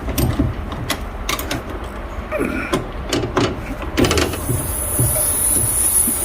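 Scattered clicks and knocks of hands working on a refrigerated display case's controls and fittings. About four seconds in, a steady high hiss starts suddenly as the unit is switched on to run after vacuuming.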